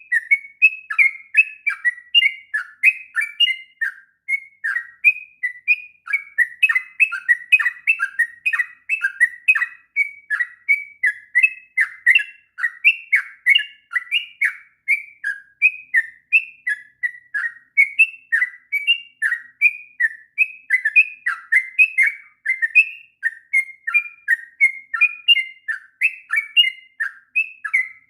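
Yellow-vented bulbul (trucuk) singing a long, unbroken run of quick chattering notes, several a second, without a pause: the continuous 'ngropel' song prized for tutoring young birds.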